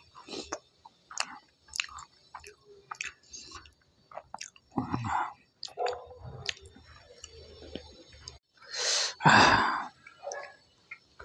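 A person chewing food close to a clip-on microphone: a string of short, irregular mouth clicks and smacks. About nine seconds in there is a louder, short rush of noise lasting under a second.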